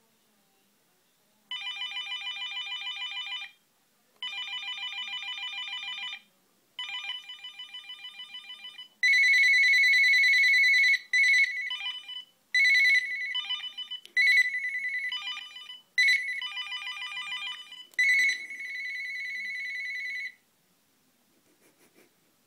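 Telephone ringing. First come three warbling rings of about two seconds each with short gaps between them. Nearly halfway through, a louder ring with a different, steadier tone takes over in shorter, uneven bursts and stops near the end.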